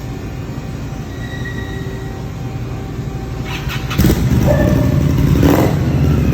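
Indian Scout Bobber's 1133cc V-twin engine running with a steady low rumble, getting suddenly louder about four seconds in.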